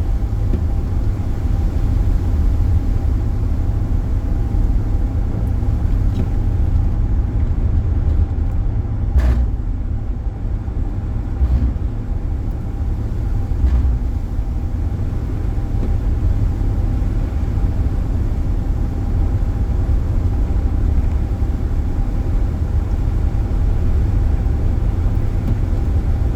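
Steady low rumble of a car being driven, with a faint steady hum over it. A single sharp click about nine seconds in.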